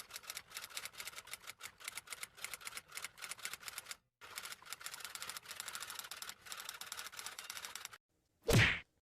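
Rapid clatter of keys being typed, fast and uneven, with a brief pause about four seconds in. It stops near the end, followed by one short loud burst.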